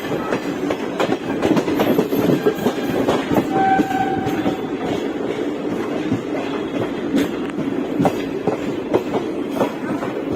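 Passenger express train running at speed, its wheels clattering over the rail joints with a continuous rumble and irregular clicks. A short, steady high tone sounds briefly about four seconds in.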